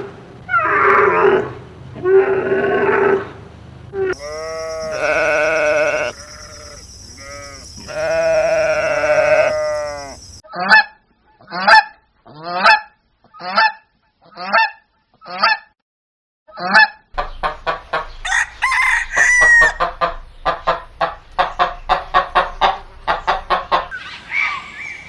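Geese honking in a series of short clips: drawn-out honks, then seven separate short honks about a second apart, then a fast run of calls.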